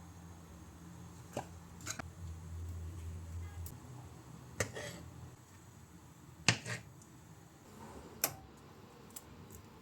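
A few sharp clicks and taps of small objects being handled, about six in all and the loudest about six and a half seconds in, over a low steady hum.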